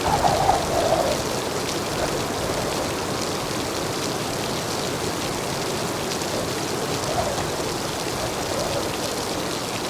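Heavy rain pouring steadily, with a brief swell of louder splashing in the first second.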